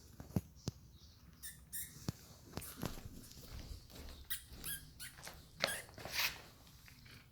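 A cat playing with a caught mouse: scattered light knocks and scuffles, with several short, high squeaks from the mouse.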